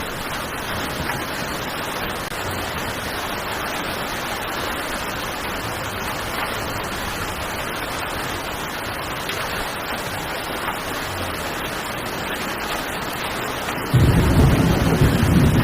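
Heavy rain falling steadily as an even wash of noise. About fourteen seconds in, a louder deep rumble comes in suddenly and carries on.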